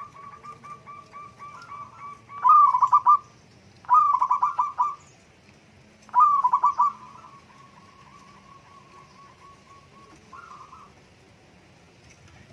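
Zebra dove (perkutut) cooing: three loud rattling phrases of quick notes, each just under a second long, with a fainter run of rapid, evenly repeated notes before and after them and a short faint phrase near the end.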